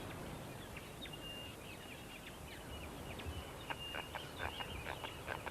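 Natural outdoor ambience: a steady hiss with scattered short, high chirps and clicks from small birds or insects throughout.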